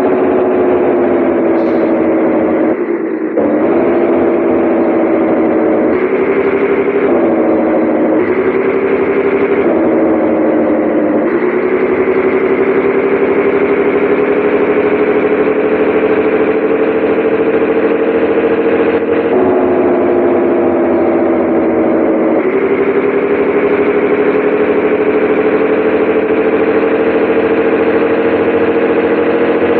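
Scania 113H 360 truck's 11-litre six-cylinder diesel running steadily under load. Its pitch shifts abruptly about eight times, with a slow climb between shifts, like gear changes on the road.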